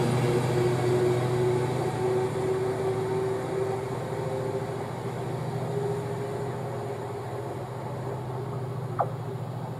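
Chiltern Railways Mainline train, hauled by a Class 68 diesel locomotive, pulling away from the station: a steady rumble and hum with a drawn-out tone, fading slowly as the train recedes. A brief sharp chirp sounds near the end.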